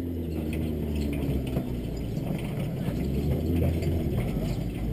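Sports car engine idling: a steady low rumble with fast ticking and clatter over it.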